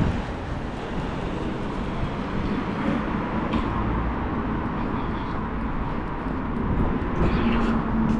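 Steady street traffic noise, with a low engine hum coming in near the end.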